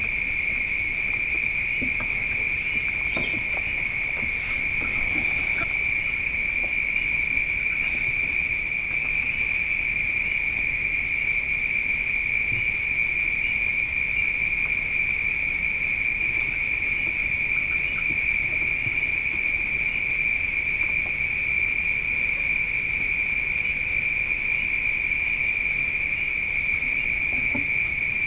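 Steady chorus of night insects: a continuous high-pitched trilling that holds at two pitches without a break. A few faint small knocks or rustles sound in the first few seconds and again near the end.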